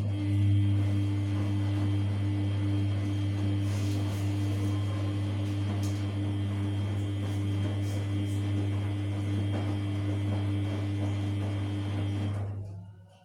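Samsung P1271 front-loading washing machine giving a loud, steady electric hum for about twelve seconds, then cutting off shortly before the end.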